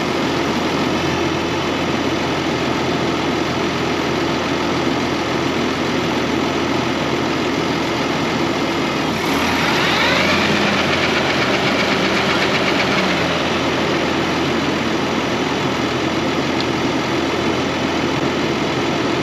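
Tractor engine running steadily while it drives the freshly repaired mower through the PTO. About nine seconds in, a whine rises in pitch over about a second, holds for a few seconds, then fades.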